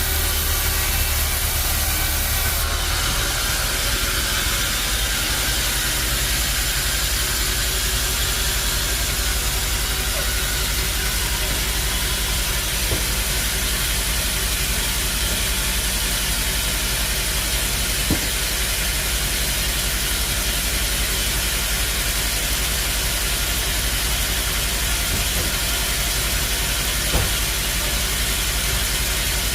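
Bandsaw sawmill running steadily: a constant hiss over a low machine hum, with a few faint knocks.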